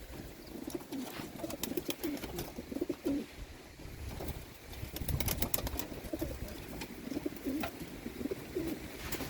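Racing pigeons cooing in a loft, several overlapping low calls, with scattered clicks and scuffles of birds moving about.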